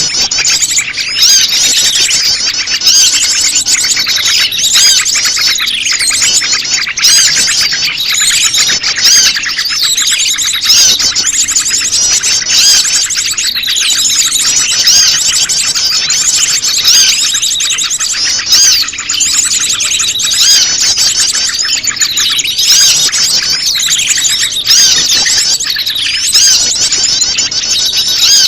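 Bird-lure recording of prenjak lumut calls layered over a dense chorus of small birds chirping and scolding, loud and continuous with no pauses.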